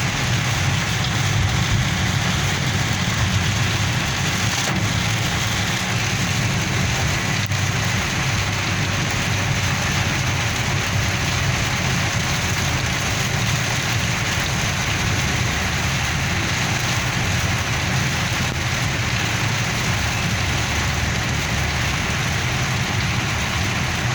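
Steady rain falling, an even hiss with a steady low rumble underneath.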